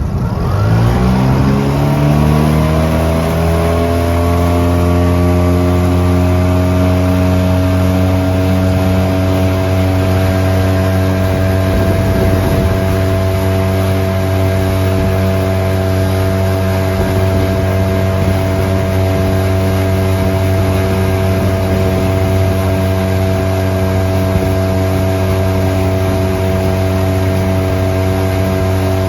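1994 Yamaha 4 hp two-stroke outboard motor revving up as the throttle is opened, rising in pitch over the first couple of seconds, then running steadily at high speed.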